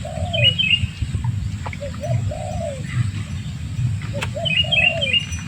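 A dove cooing: a phrase of two short notes and a longer arched coo, repeated three times. Another small bird chirps twice higher up, near the start and near the end, over a steady low rumble.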